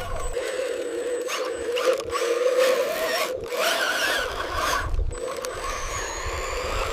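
A small electric motor on a radio-controlled construction machine whines steadily, its pitch wavering a little, with scattered clicks and knocks.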